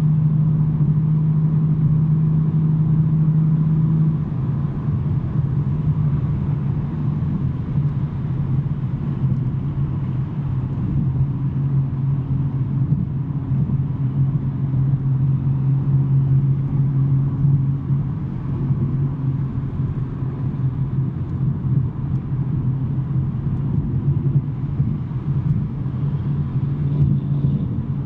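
BMW M3 G80's twin-turbo inline-six with a non-resonated J-pipe exhaust cruising under light load, a steady droning hum with road noise. About four seconds in, the drone drops a little in pitch and level, then holds steady.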